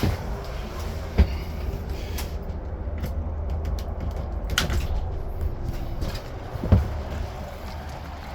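2001 Yamaha 8 hp four-stroke outboard running at a steady idle, running well after its fuel and carburettor were cleaned of water and dirt. Two sharp knocks stand out over it, about a second in and again late on.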